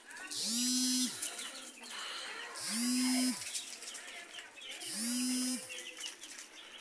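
Broiler chicks peeping, cut across by a pitched mechanical hum that rises, holds and falls three times at even intervals of about two seconds.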